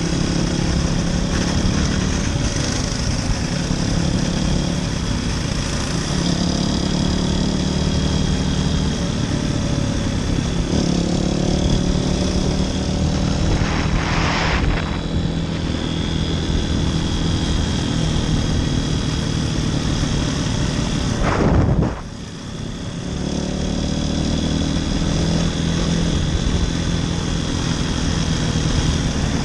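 Motoland RT200 dirt bike's engine running as it is ridden, its pitch rising and falling with the throttle, with a sudden brief drop in level about three-quarters of the way through.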